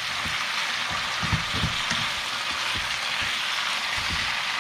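Razor clam stir-fry sizzling steadily in a hot pan, with a few low knocks from the stirring.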